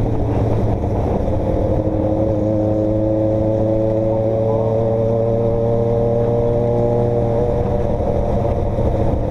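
A vehicle engine running steadily while on the move, its pitch drifting gently up and down with no sharp revving.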